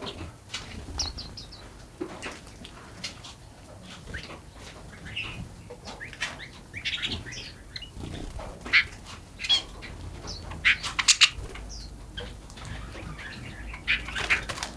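Forest birds chirping and calling: many short chirps from several birds, scattered throughout, with the loudest, sharpest run of calls about nine to eleven seconds in.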